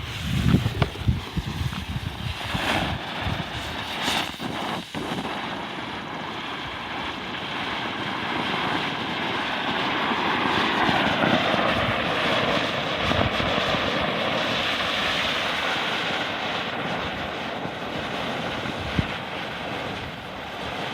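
A bundle of TNT M-100 smoke crackers burning with a steady rushing hiss that builds over the first few seconds and then holds. Lying on their sides, they spit flame rather than pouring out smoke. There are a few knocks in the first five seconds.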